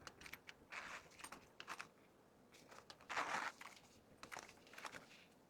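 Faint rustling and crinkling of plastic packaging with small clicks as merchandise is handled and packed, the loudest rustle about three seconds in.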